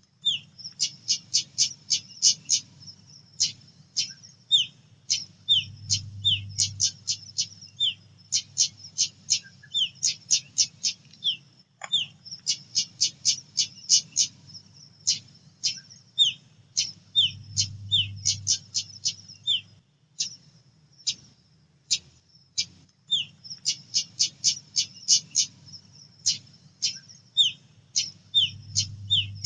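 Female pied bushchat calling: quick runs of sharp, high chip notes mixed with short falling notes, repeated again and again over a faint low hum.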